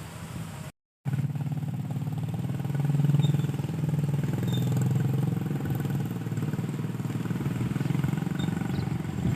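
A small engine running steadily, its low note swelling slightly partway through, after a brief cut to silence just under a second in.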